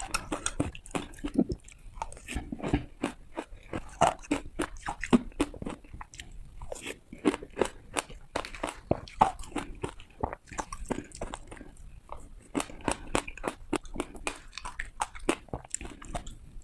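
Ice being bitten and crunched between teeth close to the microphone: a rapid, irregular run of sharp cracks and crunches, several a second.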